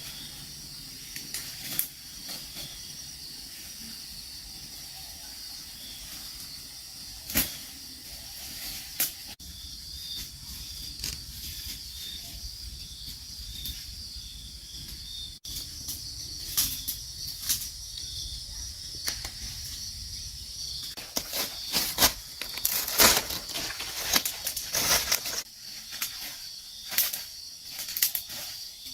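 Steady high insect chirring with scattered sharp clicks and knocks, which come much more often in the last several seconds.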